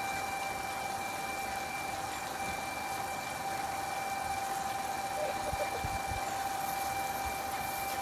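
A small motor running steadily, with a constant whine held at one pitch.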